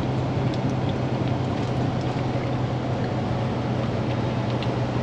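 Diesel engine of a day cab truck running at a steady, even drone under way, with road noise, heard from inside the cab.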